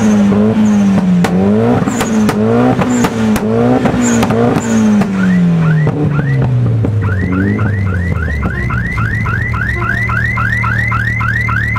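Mitsubishi Lancer Evolution VIII's turbocharged 2.0-litre four-cylinder being blipped in quick revs with sharp cracks from the exhaust, then dropping back to a steady idle about two-thirds of the way in. Over the idle a quick, repeating rising chirp sounds, about three a second.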